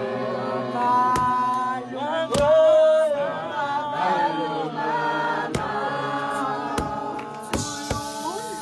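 A group of voices singing a gwijo chant a cappella, several voices holding long notes together and moving in pitch as one, with a few sharp hits now and then.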